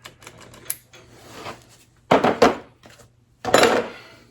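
Metal hand tools and parts clicking and clattering, with two louder rattling spells about two and three and a half seconds in.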